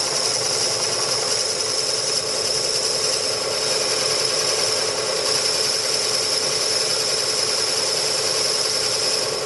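Machine tool running steadily with a constant high whine while a boring tool takes the last pass through a Porsche 911 mechanical-fuel-injection throttle-body bore.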